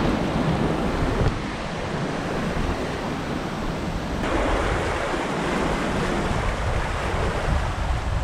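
Wind buffeting the microphone over water rushing and splashing past a sailboat's hull as it sails fast in 22–23 knots of wind. It is a steady rush that swells a little about four seconds in.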